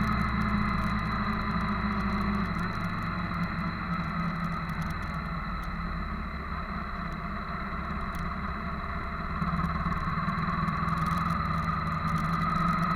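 Motorcycle engines running steadily. The sound changes a little about two and a half seconds in, grows slightly quieter in the middle, then gets louder again near the end.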